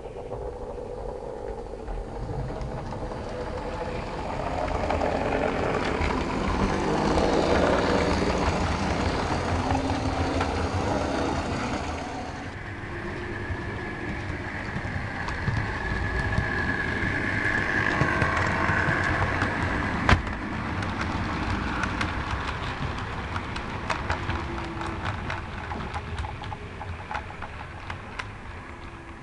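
OO gauge model diesel train running along the layout track, growing louder as it passes, easing off about halfway, then building again with a steady high whine. A sharp click about two-thirds of the way in, and lighter ticks of the wheels over rail joints towards the end.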